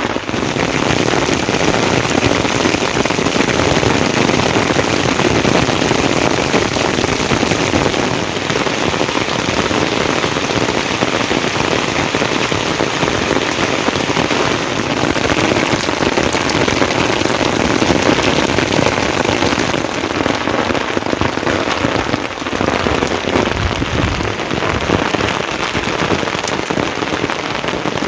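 Steady, heavy rain falling, a dense patter of drops hitting surfaces.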